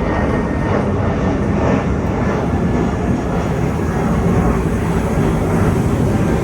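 Jet airliner engines passing close, a steady loud rumble.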